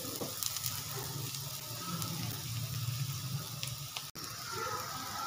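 Aloo paratha frying in oil on a flat pan: a steady sizzle that briefly cuts out about four seconds in.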